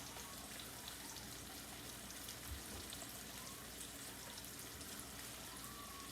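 Tilapia fillets frying in a pan: a faint, steady sizzle with scattered small crackles.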